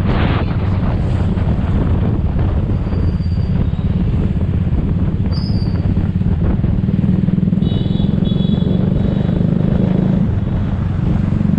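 Motor scooter running steadily on the road, with heavy low engine and road rumble throughout. Two short, high-pitched beeps sound about eight seconds in.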